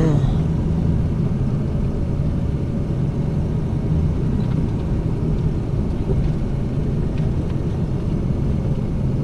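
A vehicle being driven over rough ground: engine and tyres making a steady low drone.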